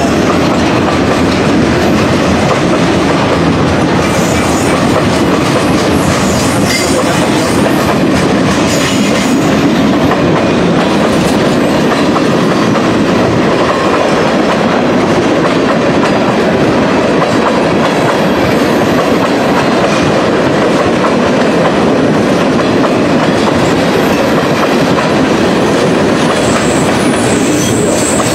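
Long mixed-freight manifest train rolling past, its steel wheels clattering steadily over the rail joints with a loud, unbroken rumble.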